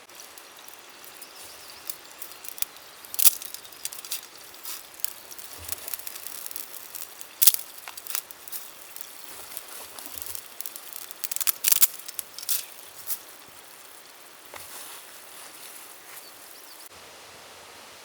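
Irregular sharp clicks, taps and short rustles over a soft steady hiss. The loudest clicks come about three seconds in, at seven and a half seconds and around twelve seconds.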